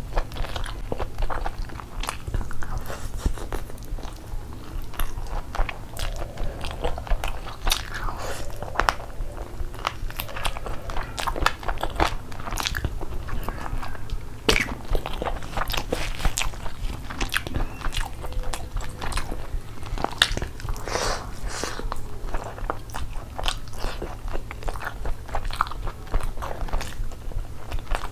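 Close-miked chewing and biting of a mouthful of chicken curry and fried rice, with many short clicks all through, over a steady low hum.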